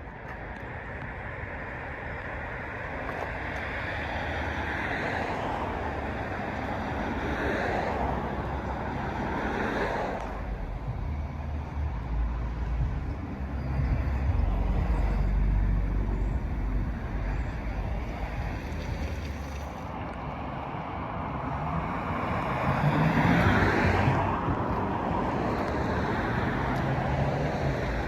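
Road traffic going by: several vehicles swell up and fade away one after another over a steady low rumble. The loudest pass comes near the end.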